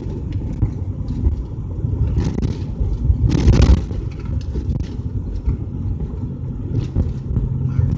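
Car road noise and engine rumble heard from inside the cabin while driving, with a brief loud rush of noise about three and a half seconds in.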